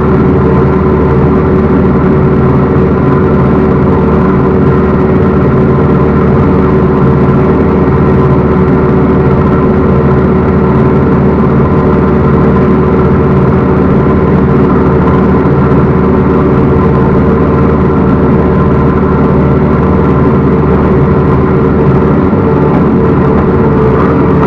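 Backhoe loader's diesel engine running loud and steady at a constant speed, with no change in pitch.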